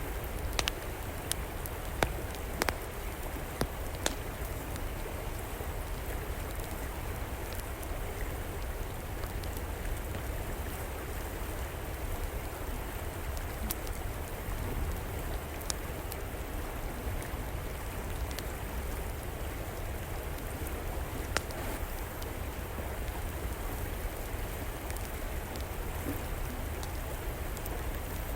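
Steady rush of flowing river water, with sporadic sharp crackles and pops from an outdoor wood fire: several in the first few seconds, then a few scattered ones.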